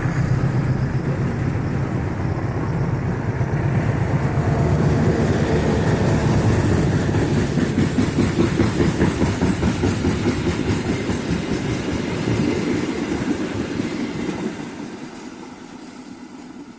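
Diesel-locomotive-hauled passenger train passing at speed: the locomotive's engine hum in the first few seconds, then a dense rapid clatter of wheels over the rail joints as the coaches go by, fading away over the last two seconds.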